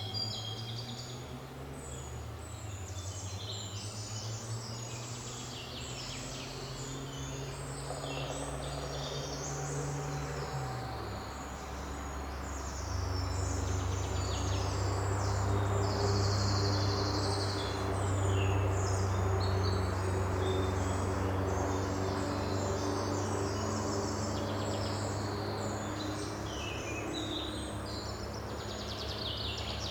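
Several small songbirds chirping and singing over one another throughout. Underneath runs a steady low hum that shifts pitch about ten seconds in and grows louder past the middle.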